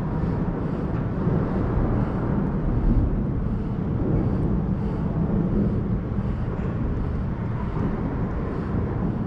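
Steady low rumble of vehicle traffic, swelling a little about three seconds in.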